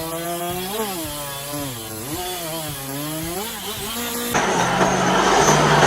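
Stump grinder engine running under load, its pitch repeatedly dipping and recovering as the cutter wheel bites into a stump. About four seconds in, a sudden louder, rougher, noisier machine sound takes over.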